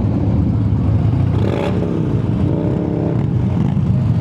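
V-twin motorcycle engine running at low parade speed, rising and falling in pitch as it is revved between about one and a half and three and a half seconds in.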